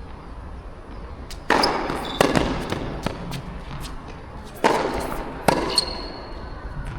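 Tennis ball being hit back and forth in a rally: sharp pops of the ball off racket strings and the court, in two pairs about three seconds apart, over a low rumble of wind on the microphone.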